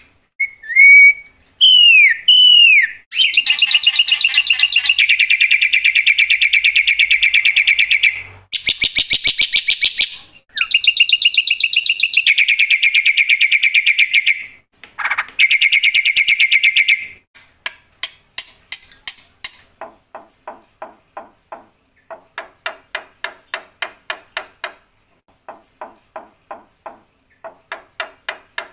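Black-winged myna (jalak putih) singing loudly: a couple of sweeping whistled glides, then long, fast, harsh rattling trills broken by short pauses. About halfway through it drops to quieter runs of rapid short notes in repeated bursts.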